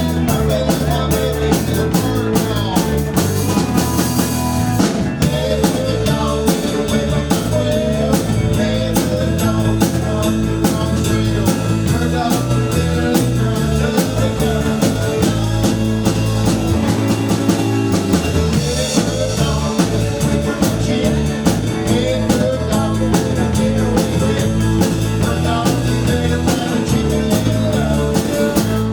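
Live rock-and-roll band playing: a steady drum-kit beat with rimshots and cymbal crashes over a stepping bass line and guitar.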